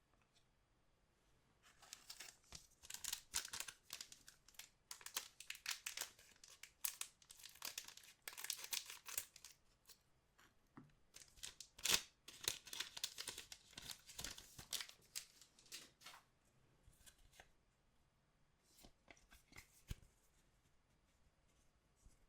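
Wrapper of an anime trading card pack being torn open and crinkled by hand: a dense crackling rustle from about two seconds in until about sixteen seconds, then a few scattered crinkles.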